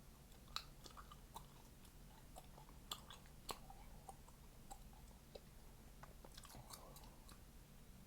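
Faint gum chewing: soft, wet mouth clicks with a few sharper snaps, the loudest about half a second in, near three seconds and at three and a half seconds.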